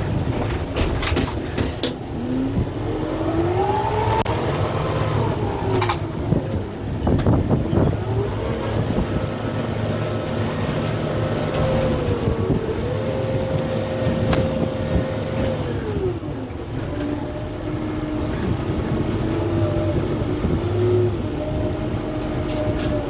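Kubota M6-141 tractor's diesel engine running under load, its pitch rising and falling over a few seconds at a time. Several sharp cracks or knocks are heard over it.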